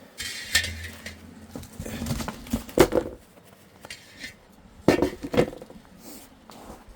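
Metal cookware being handled, giving a few clinks and knocks. The loudest knocks come about three and five seconds in.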